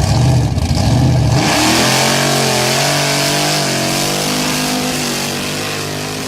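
A car engine runs with a low, pulsing rumble, then revs up about a second and a half in and holds a steady, slightly wavering note that slowly fades.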